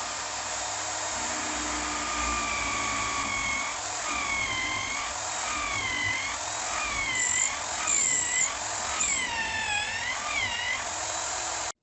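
Electric power tool motor running with a high whine. From a few seconds in, the pitch sags and recovers about once a second as the tool is loaded in the work, then the sound cuts off abruptly near the end.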